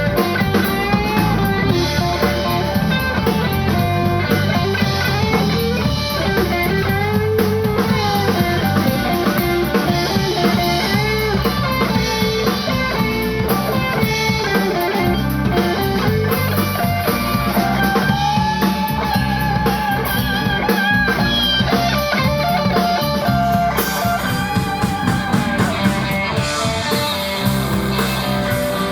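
Live blues-rock band playing, with a guitar carrying a lead line of wavering, bending notes over a drum kit.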